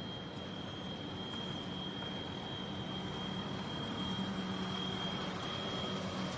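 Steady background noise with a constant thin high-pitched tone over it.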